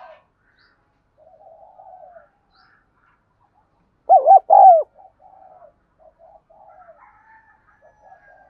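Spotted dove cooing: a loud two-note coo about four seconds in, with fainter cooing before and after it.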